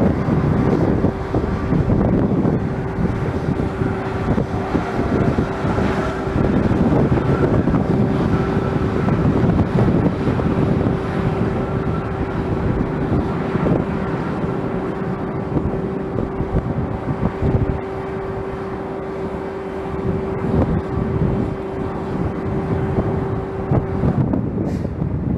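Jet aircraft engines running with a steady whine that stops about a second before the end, under heavy wind buffeting on the microphone.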